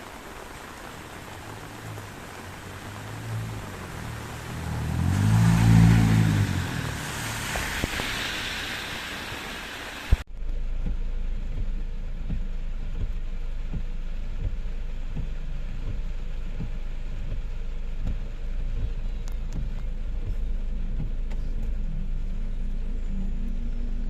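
Steady rain with a motor vehicle passing through it: an engine rumble and wet hiss swell to a peak about six seconds in, then fade. About ten seconds in, the sound cuts abruptly to a steady low rumble with a dull hiss above it.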